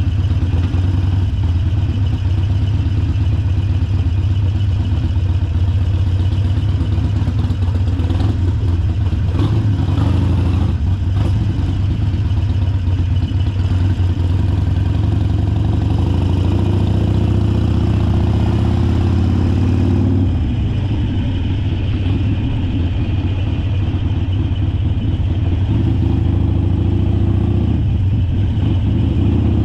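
Harley-Davidson Forty-Eight's 1200 cc V-twin engine running under way. It climbs steadily in pitch with throttle, then drops back about twenty seconds in.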